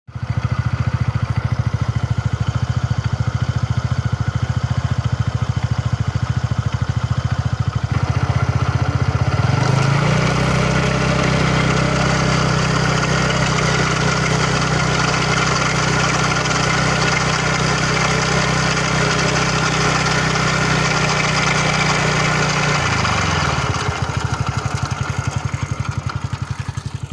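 TVS Ntorq XT scooter's single-cylinder engine idling, then raised to a faster steady speed about ten seconds in and held there before dropping back to idle near the end. The engine is making a noise the owner considers a fault.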